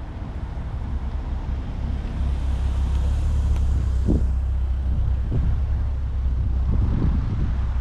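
A car's engine running as it drives by, a low rumble that grows louder over the first few seconds, with a few short rises and falls in the engine note.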